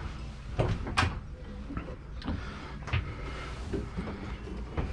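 Knocks, bumps and scuffs of a person climbing down into a boat's hull bilge, about five separate sharp knocks over a faint low hum.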